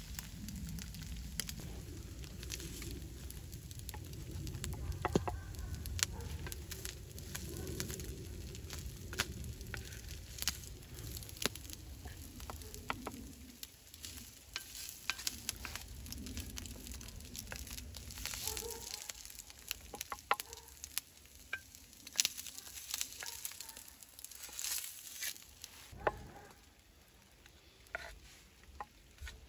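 Potato omelette sizzling on a hot stone slab over a wood fire, with a wooden spatula scraping and tapping on the stone. The sizzle fades in the second half, leaving sharp taps and scrapes as the food is pushed onto a wooden board.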